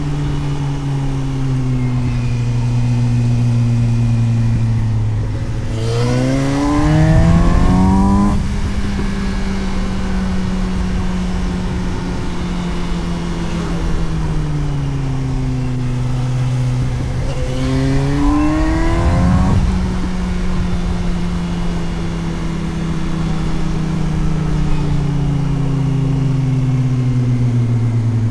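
Suzuki GSX-S750's inline-four engine heard onboard while riding: a steady drone that slowly falls in pitch as the throttle eases. Twice, about six seconds in and again around eighteen seconds, it pulls hard under acceleration, its pitch climbing sharply for about two seconds. The first pull is the loudest.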